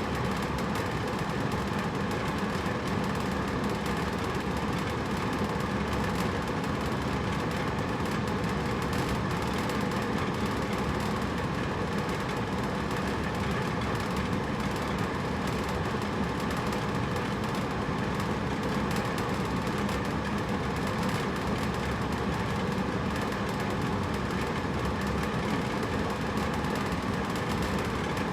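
Hotel room air conditioner running steadily: an even whooshing hum with a faint low drone, unchanging throughout.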